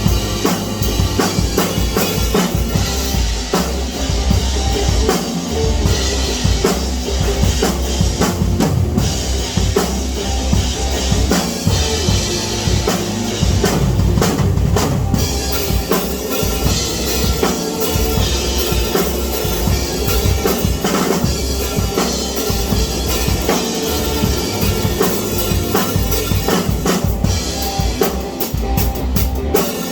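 Drumming on a drum kit, bass drum and snare struck continuously without a break.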